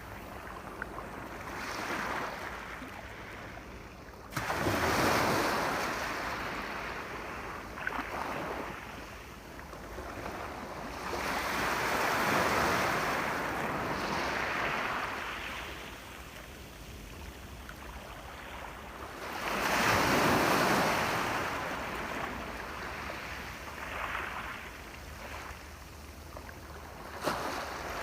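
Sea waves breaking and washing up the shore in slow surges, the biggest coming in about four, twelve and twenty seconds in, with a few short clicks between them.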